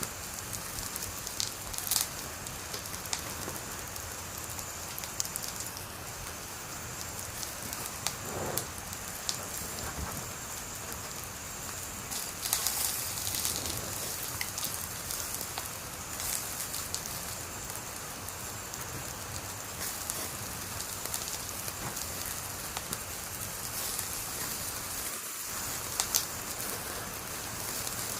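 Wood fire burning: a steady hiss with scattered crackles and sharp pops, a few louder pops about two seconds in, around the middle, and near the end.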